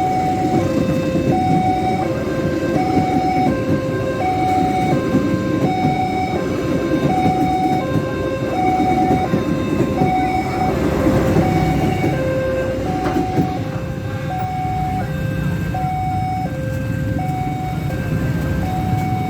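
Railway level-crossing warning alarm sounding a repeating two-tone electronic chime, a higher and a lower note alternating, over the rumble of a passing train that eases a little about two-thirds of the way through.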